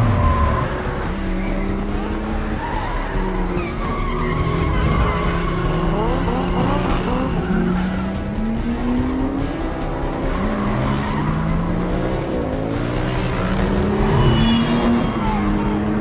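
Several car engines revving hard, rising and falling in pitch, with tyres skidding and squealing, louder near the end. A film score plays underneath.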